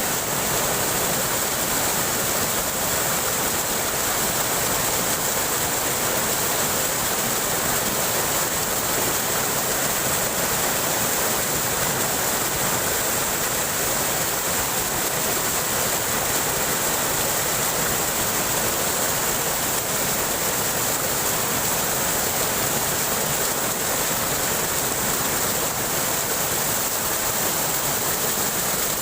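Waterfall: a steady, unbroken rush of falling water, with a strong hiss on top.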